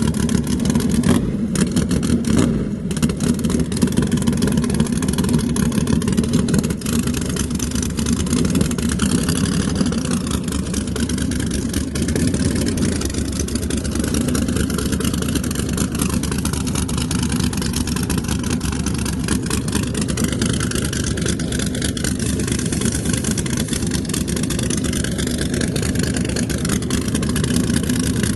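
Drag car engine running loudly and steadily, a rapid rough pulsing with its energy low down and no sharp rises in level.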